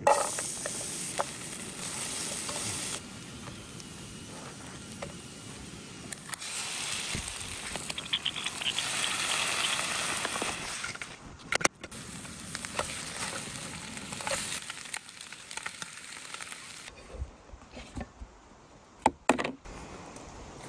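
Food frying in a pan on a canister gas camp stove: fat, then eggs and bacon, sizzling steadily, the sizzle changing in loudness at a few cuts. A few sharp knocks of a spatula against the pan near the end.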